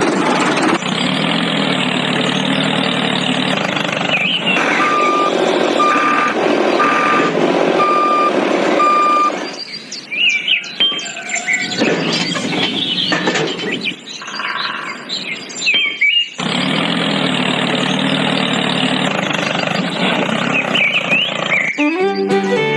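A heavy vehicle's engine running steadily, with a reversing alarm giving five or six even beeps, a little under one a second, for a few seconds. About halfway through, the engine sound drops away for several seconds and short squeaky chirps are heard, then the engine sound returns.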